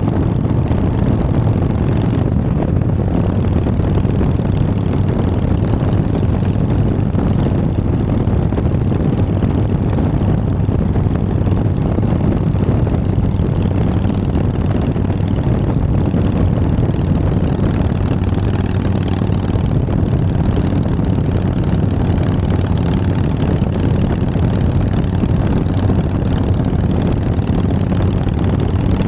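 Harley-Davidson Sportster's air-cooled V-twin engine running steadily.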